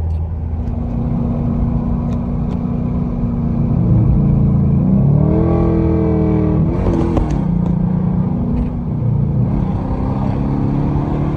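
Car engine and exhaust heard from inside the car, with a damaged exhaust pipe. It pulls steadily, revs higher about five seconds in, then drops back with a short rush of noise a second or two later and settles.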